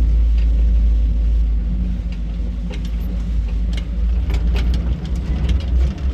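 A car running on the road: a steady, loud low engine and road rumble, with scattered sharp clicks and knocks over it.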